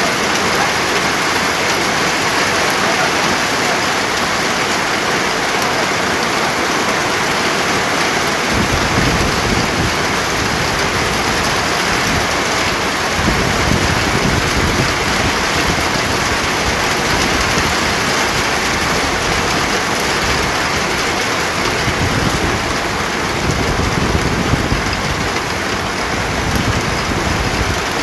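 Steady heavy rain hissing. Low rumbles of thunder start about a third of the way in and come and go several times.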